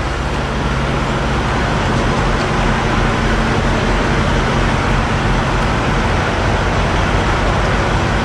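Steady vehicle noise: an engine's low, even hum under a constant rushing noise, with no sudden sounds.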